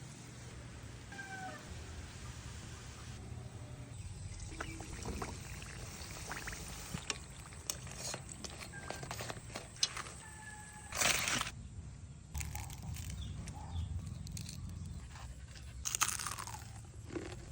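Crisp fried turon wrapper crunching in scattered crackles, with two louder crunches about halfway through and near the end.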